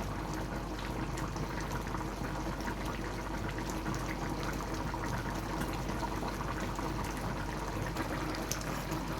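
Pot of curry chicken feet simmering: a steady liquid bubbling with many small irregular pops, over a constant low hum.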